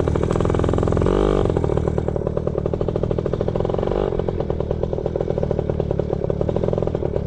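Yamaha PW80 pit bike's small two-stroke single-cylinder engine running while riding, its pitch rising briefly about a second in and then holding fairly steady.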